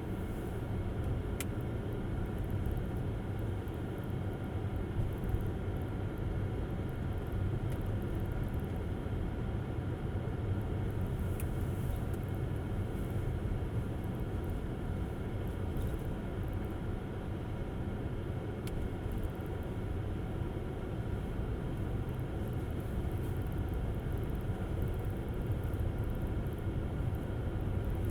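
Steady low road and tyre rumble of an electric Tesla Model S driving on a snowy road, with a few faint ticks.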